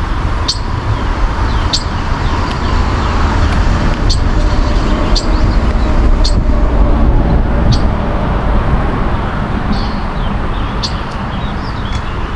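Short high bird chirps repeating every second or so over a loud, steady low rumble.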